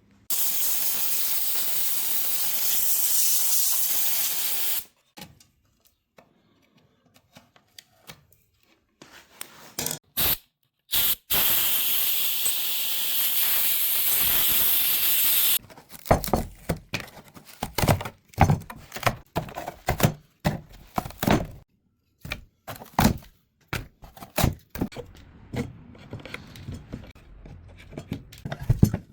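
A steady hissing spray of air or liquid from a nozzle, held for about four seconds, then a few short bursts and another four-second spray, each cutting off abruptly; after that, a run of irregular knocks and taps on wood.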